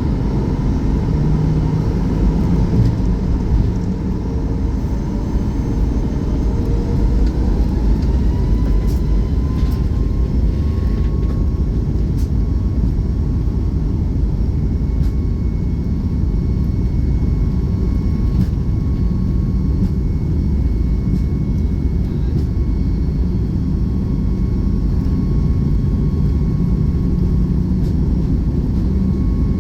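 Aircraft engines at takeoff over a heavy, steady low rumble. An engine whine rises in pitch from about five to ten seconds in, then holds steady as the engines reach takeoff power.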